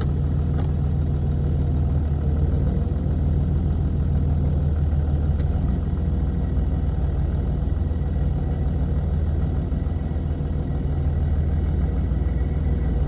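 6.7 L Cummins turbo-diesel of a 2011 Ram 2500 idling steadily while it warms up.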